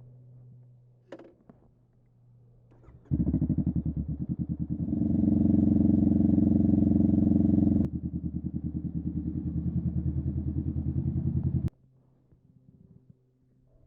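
Honda Rebel 500's parallel-twin engine through a Vance and Hines upsweep exhaust, running with an even, fast pulse. It comes in abruptly a few seconds in, is louder for a stretch in the middle, drops back, and cuts off suddenly near the end.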